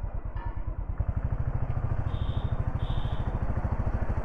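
Motorcycle engine running at a steady, even beat while riding. Two short high beeps come about two and three seconds in.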